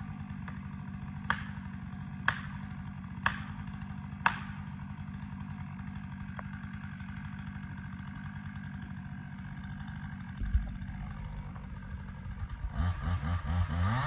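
Stihl chainsaw idling steadily, with sharp knocks about a second apart in the first few seconds and a single thump about ten and a half seconds in. Near the end the engine revs up in rising surges.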